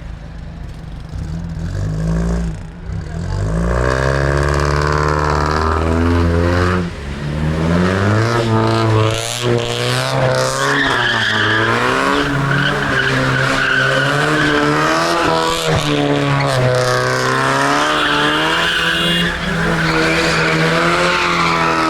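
Car engine revving up and down repeatedly while its tyres squeal, as the car is drifted or spun in donuts. It grows louder about four seconds in.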